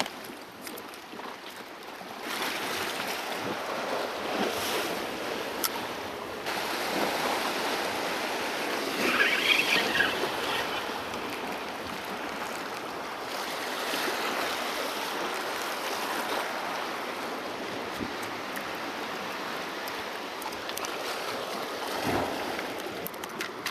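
Sea waves washing over shoreline rocks, the surf rising and easing, with a louder surge of water about nine seconds in.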